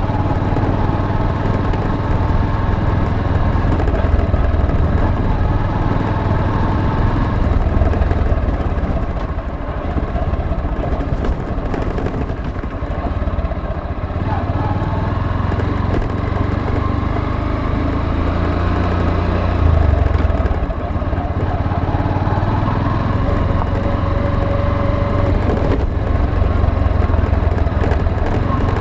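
Motorcycle engine running steadily while under way, a low engine rumble with its note shifting a little as the speed changes.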